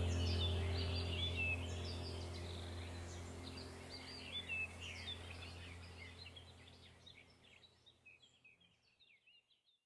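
Many small birds chirping over a steady low hum, the whole sound fading out evenly to silence near the end.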